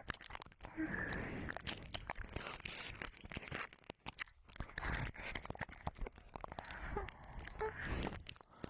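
Close-up wet ear-licking and mouth sounds on a binaural ear microphone: dense tongue and lip clicks, smacks and sticky crackles, with soft breaths between, pausing briefly about four seconds in.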